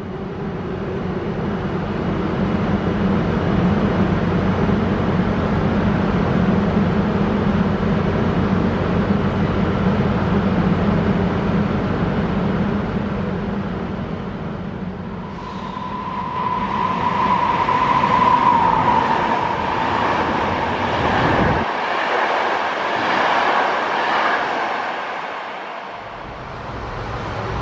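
Train approaching along the station tracks: a steady low rumble, joined about halfway through by a high steady metallic squeal that sinks slightly in pitch, over louder rail noise.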